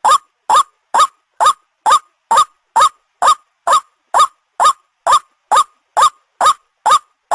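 Recorded white-breasted waterhen (ruak-ruak) call played as a hunting lure: a short note sliding upward, repeated at a perfectly even pace about twice a second.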